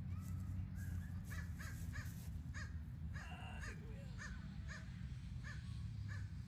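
A bird calling over and over outdoors, short calls coming about two a second, over a steady low rumble.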